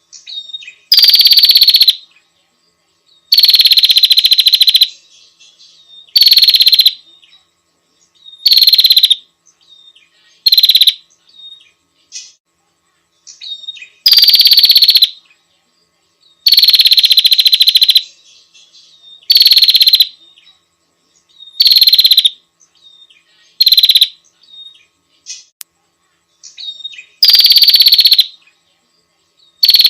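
Small prinia singing: loud, buzzy rattling trills of about a second each, repeated every two to three seconds, with short high chirps between them.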